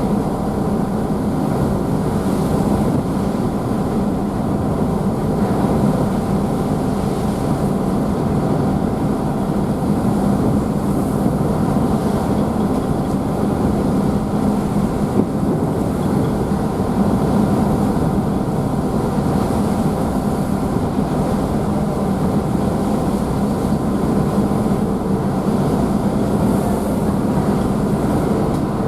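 Car ferry's engines running at cruising speed, a steady hum with a few fixed tones, over the constant rush of churned water and wake spray behind the stern.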